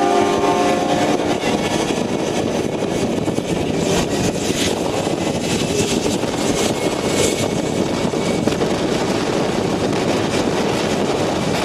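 A jet engine on a jet-powered drag racer, running with a steady, even noise. A held pitched tone dies away within the first second.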